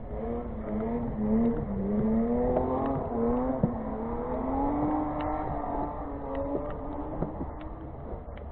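Go-kart engines running and revving, their pitch rising and falling several times as the karts speed up and slow down.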